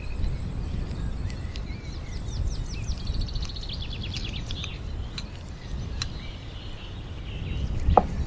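Birds chirping in the background, with a quick high trill a few seconds in, over a steady low rumble. A wooden spatula knocks against the pan near the end.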